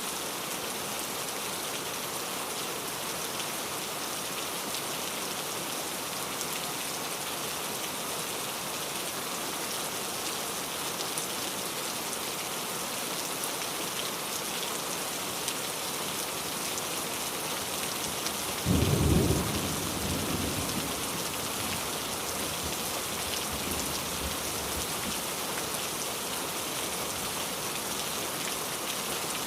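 Steady rain falling, with a sudden clap of thunder about two-thirds of the way through that rumbles low and dies away over a few seconds.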